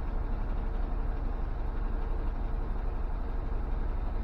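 International Model S truck's MV-446 gas V8 idling steadily while it warms up after a cold start.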